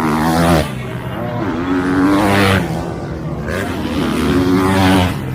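Motocross dirt bike engines revving hard, in three loud surges about two seconds apart, each rising in pitch and then dropping off.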